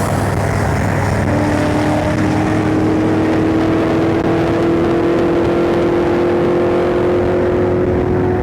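Harley-Davidson Road King Special's V-twin engine running under way, with wind rush, its pitch rising slowly as the bike gathers speed.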